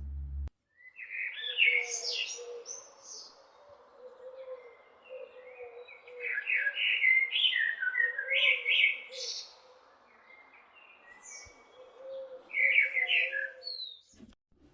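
Birds chirping in three bursts of quick rising and falling notes, over a faint low wavering line.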